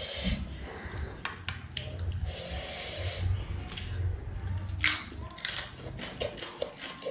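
Eating sounds: chewing and mouth smacks, with fingers working rice and cabbage on a steel plate, and a run of short, sharp clicks.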